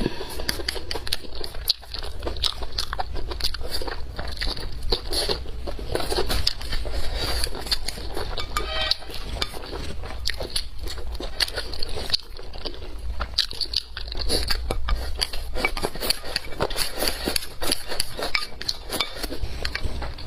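A person chewing and biting food close to the microphone: a dense, continuous run of small mouth clicks and smacks, with a steady low hum underneath.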